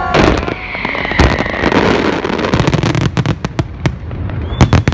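New Year fireworks going off: a couple of loud bangs in the first second or so, then a rapid string of sharp crackling reports in the second half.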